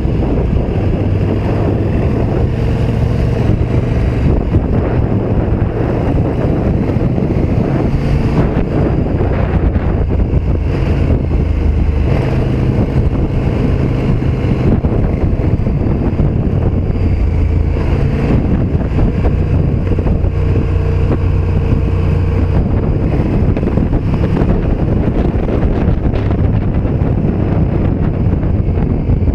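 KTM 1290 Super Duke R Evo's V-twin engine running under way, its pitch shifting up and down in steps several times, with heavy wind noise on the microphone.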